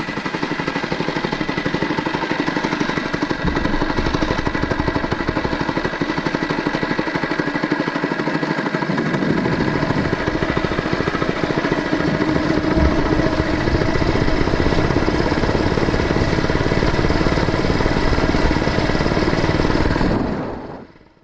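A mini bike's small single-cylinder engine running with a rapid, even beat, fuller and deeper from about nine seconds in, then cutting off near the end.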